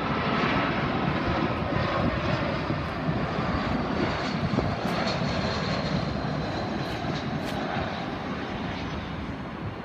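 Jet airliner's engines as it comes in to land and passes by: a steady rushing noise with a thin whine slowly dropping in pitch, easing off a little near the end.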